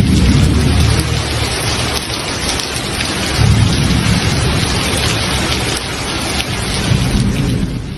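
Heavy rain pouring down hard and steadily, with deep low rumbles swelling up a few times.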